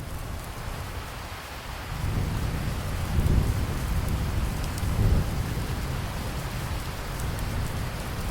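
Steady rain falling, with a roll of thunder rumbling in about two seconds in, swelling twice and then slowly dying away under the rain.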